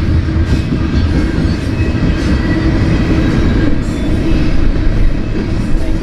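Double-stack intermodal freight train rolling past at close range: the steady rumble of its wheels on the rails.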